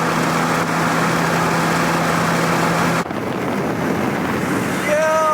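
Car driving on the road: a steady engine hum under a wash of road and wind noise, which changes abruptly about three seconds in. Near the end comes a short falling pitched tone.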